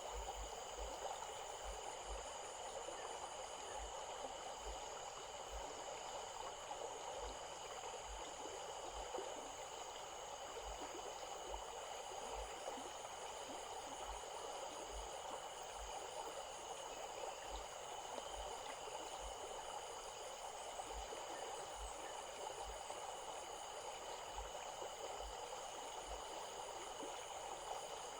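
Stream water flowing steadily, with a continuous high-pitched insect chorus over it, some of its tones pulsing evenly.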